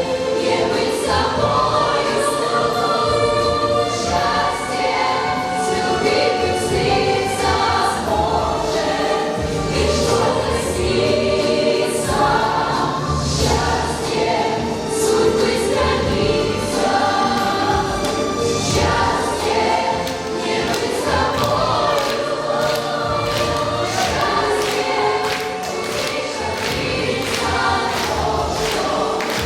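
A song sung by a group of voices together over backing music with a regular beat.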